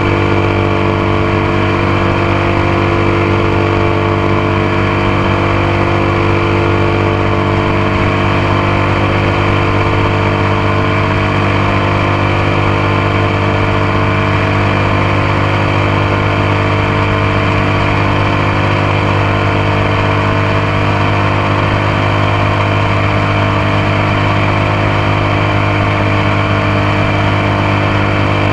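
Motorcycle engine running at a steady, unchanging pitch, heard up close from a camera mounted on the passenger foot peg.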